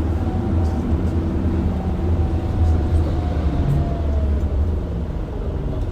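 Isuzu Erga QDG-LV290N1 city bus heard from inside the cabin while running: a steady deep diesel and drivetrain rumble, with a thin whine that slowly falls in pitch through the middle.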